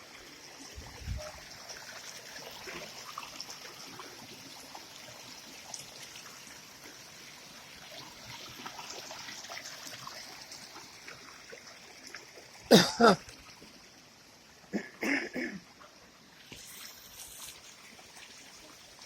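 Water from a small waterfall and stream rushing steadily as a constant hiss. Twice in the second half, short loud bursts of a person's voice cut in, the first like a cough.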